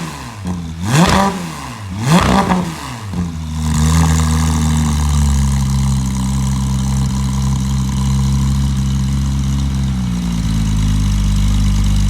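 2019 Porsche 911 GT3 RS's 4.0-litre naturally aspirated flat-six, breathing through iPE headers, high-flow cats and a titanium muffler section, is blipped twice with quick rises and falls in pitch. It then settles into a steady idle that drops slightly in pitch near the end.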